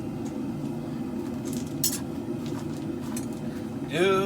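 Propane forge burners running steadily, with a couple of light metallic clinks about a second and a half and two seconds in.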